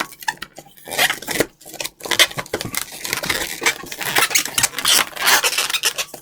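Inflated latex modelling balloons squeaking and rubbing against each other as they are twisted and locked together. A quick, irregular run of squeaks and creaks, sparse for the first couple of seconds and then nearly continuous.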